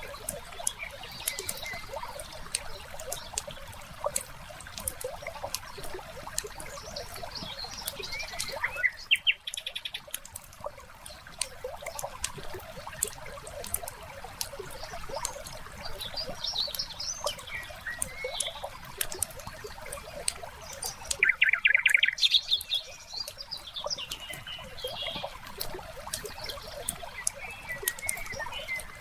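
Wood fire crackling with many small pops, while songbirds chirp over it. There are two louder rapid bird trills, one about nine seconds in and one about twenty-two seconds in.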